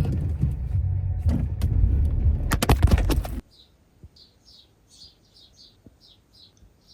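Low rumble of a car as it is being parked, with several sharp clicks and knocks; it cuts off abruptly about three and a half seconds in. Then a small bird chirps repeatedly, a few short high chirps a second.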